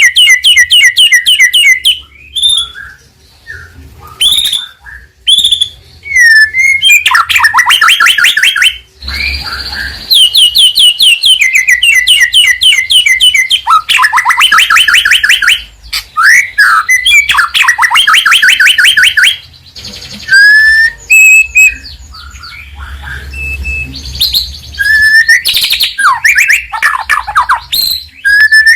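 White-rumped shama (murai batu) singing loudly: phrases of fast, rapidly repeated notes alternate with clear slurred whistles, broken by short pauses.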